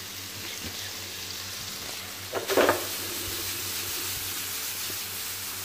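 Seasoned fish pieces frying in a pan with a steady sizzle, and one brief louder sound about halfway through.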